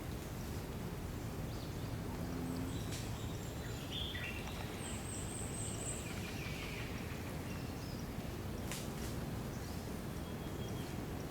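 Outdoor hillside ambience: a steady background hiss with a few short, high chirps from birds or insects scattered through the first half.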